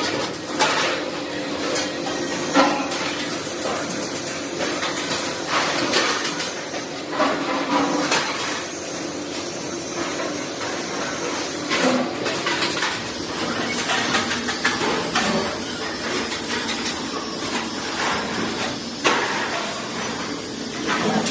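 Metalworking workshop noise: a steady machine hum with many irregular metal knocks and clanks, like hammering.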